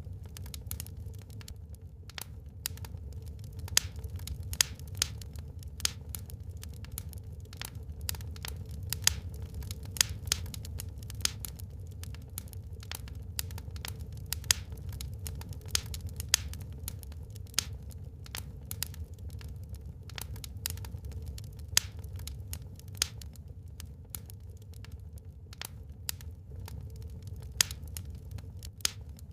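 Wood fire burning in a fireplace, crackling with many irregular sharp pops and snaps over a low steady rumble.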